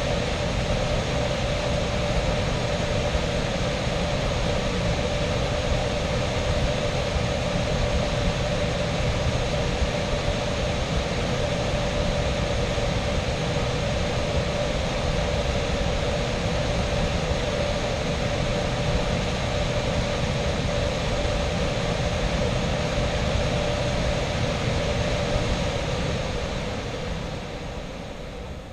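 Air handler blower fan running steadily with a constant hum after the electric heat strips have cut out, clearing the leftover heat, then winding down and fading out near the end as the fan shuts off.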